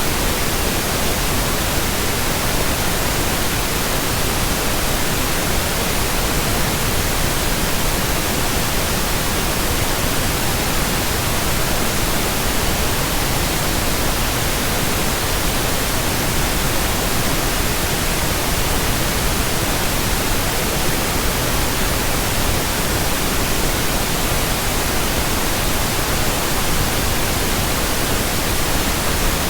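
Steady pink noise: an even, unbroken hiss spread across all pitches, with no change in level or character.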